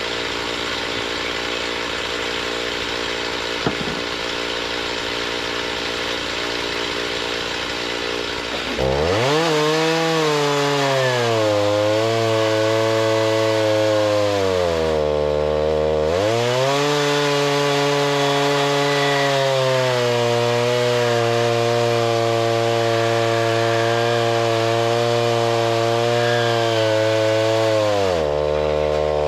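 Chainsaw running at low speed, then throttled up about nine seconds in and held at high speed for milling lumber. Its speed dips briefly twice, around the middle and near the end, then climbs back.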